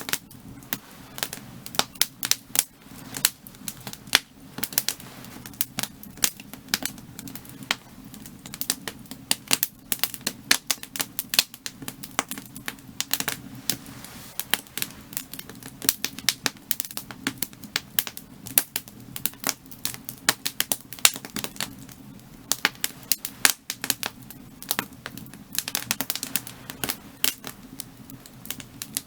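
Burning firewood crackling and popping, with a dense run of irregular sharp snaps, some much louder than others, over a steady low rumble of the fire.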